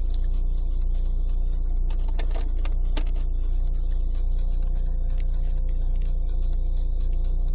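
Volkswagen Polo's engine idling steadily, heard inside the cabin as a low hum, with a couple of sharp clicks about two to three seconds in.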